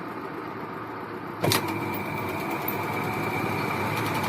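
LG fully automatic washing machine running in spin mode with a steady hum, its suspension rods newly replaced so the spin runs without the heavy noise it made before the repair. About a second and a half in there is a sharp click, after which a steady high whine joins and the sound gets a little louder.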